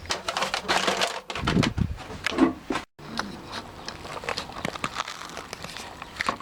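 Rustling and crinkling with many scattered clicks and knocks, like things being handled; busier for the first few seconds, then a brief dropout and lighter clicking.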